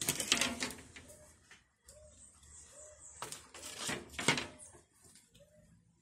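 A bird cooing in short, low, repeated notes about a second apart, with two louder bouts of rustling, scraping noise: one at the start and one about three to four seconds in.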